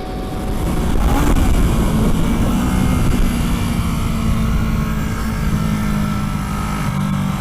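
Kawasaki Ninja 650R's parallel-twin engine running at track speed under heavy wind rush, heard from a helmet-mounted camera. It grows louder over the first second or so, then holds steady.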